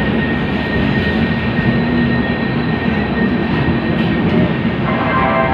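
Loud, steady rumbling noise of a train at a station platform, with a steady high whine over it.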